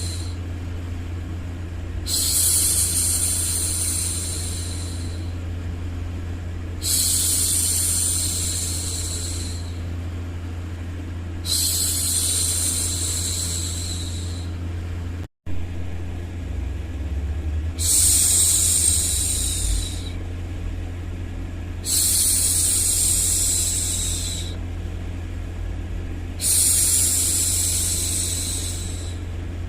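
A woman's voice hushing a baby with long 'shhh' sounds, about six in a row, each held for a few seconds, over a steady low background hum. The sound cuts out completely for a moment about halfway through.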